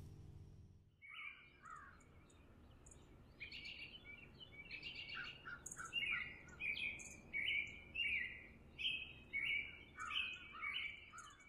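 The last acoustic guitar chord fades out in the first second, then wild birds singing: short repeated phrases of falling notes with thin high chips, busier and louder from about six seconds in.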